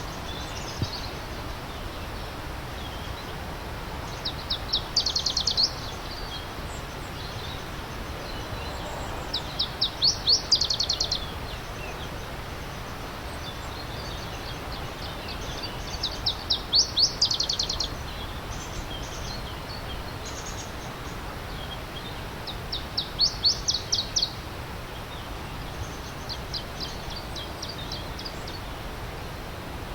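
A songbird singing a short, fast series of high repeated notes, about every six seconds, four times, with fainter chirps from other birds between. A steady rush of stream water runs beneath it.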